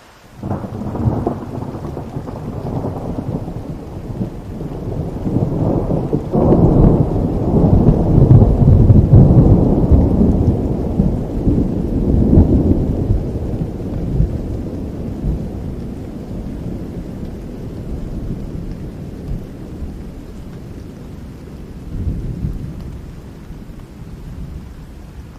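A long roll of thunder over steady rain. It breaks in suddenly at the start, swells to its loudest about eight to ten seconds in, and rumbles away slowly, with a smaller swell near the end.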